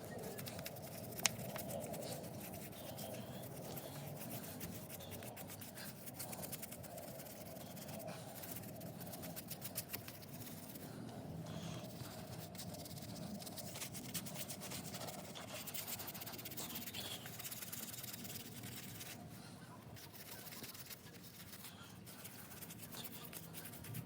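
Hand brush scrubbing grime off a car gearbox casing: a steady, rapid scratchy brushing. There is one sharp click about a second in.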